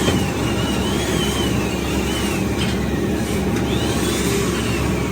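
Workshop machinery running steadily with a low rumble, over which a thin high whine slowly wavers up and down in pitch. A few faint clicks come through.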